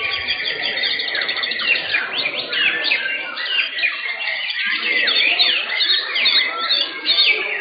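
White-rumped shamas singing at once: a dense, overlapping stream of rapid chirps and whistled rising and falling notes, with no pause.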